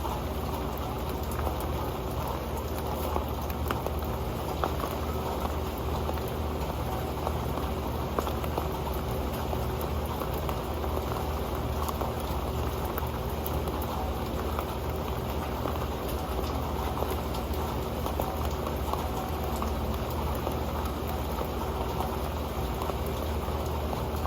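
Rain falling onto an old pan: a steady, dense patter of small drops ticking on the pan.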